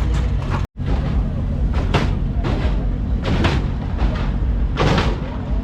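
Hydraulic lowrider hopping: several loud bangs about a second apart as the car slams up and down, over crowd noise and a steady low hum. The sound cuts out briefly just under a second in.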